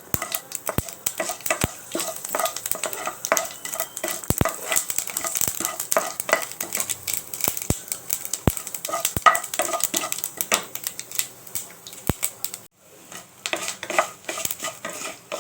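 Mustard and fenugreek seeds popping and sizzling in hot coconut oil in a pan, many irregular sharp crackles over a light hiss, with a spoon stirring against the pan.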